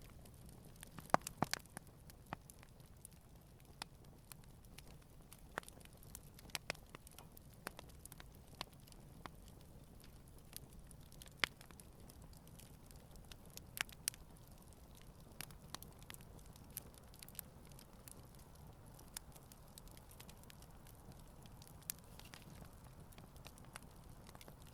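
Wood campfire burning gently, crackling and popping with irregular sharp snaps over a faint low rumble of the flames; a quick cluster of the loudest pops comes about a second in.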